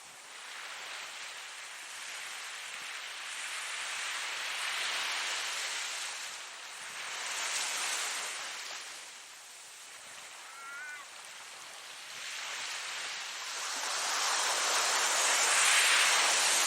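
Ocean surf: waves breaking and washing in, rising and falling in slow surges every few seconds, the biggest one near the end.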